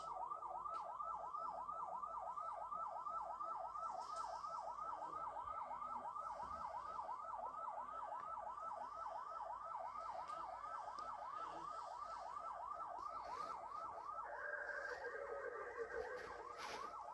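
Police car siren sounding a fast yelp, rising and falling several times a second, with a second, steadier siren tone joining about two-thirds of the way through.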